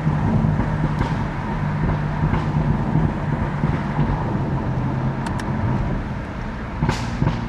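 BMW F80 M3's twin-turbo S55 inline-six running at steady revs while the car cruises, with a steady tyre and road noise. A few sharp sounds come near the end.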